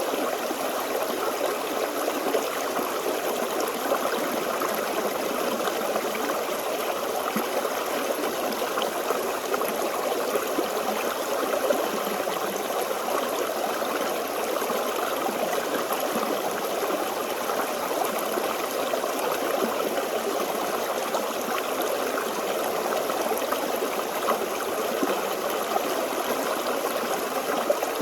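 Forest stream flowing steadily, water trickling and gurgling over rocks.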